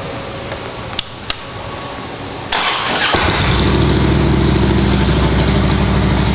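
2012 Harley-Davidson Road Glide Ultra's Twin Cam 103 V-twin being started: two sharp clicks, about half a second of starter cranking, then the engine catches about three seconds in and settles into a steady idle through Rinehart aftermarket exhaust.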